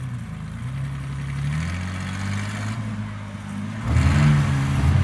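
Truck engine running under load, its pitch rising and falling with the throttle, then revving up sharply and louder about four seconds in.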